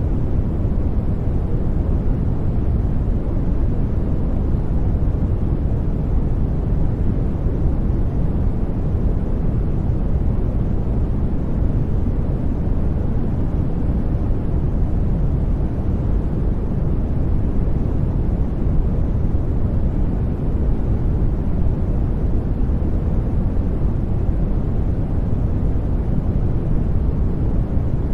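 Steady, unchanging noise played for studying, deep and low with only a faint hiss on top. The low end is much heavier than in a flat white-noise hiss, closer to brown noise.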